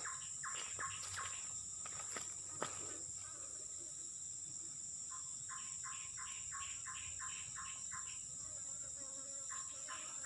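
Crickets or other insects chirring steadily in a high, unbroken drone. Over the drone come a few sharp clicks early on, then two runs of a rapidly repeated call at about four a second in the second half.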